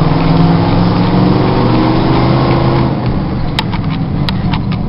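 Engine of a lifted 1996 Ford F-150, fitted with BBK headers and a straight-piped Flowmaster exhaust, pulling under throttle inside the cab with its pitch rising gently. It eases off about three seconds in. A few light clicks follow.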